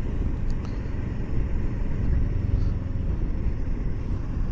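Riding noise from a Kawasaki Versys 650 parallel-twin motorcycle under way: a steady low rumble of wind and engine on the helmet microphone.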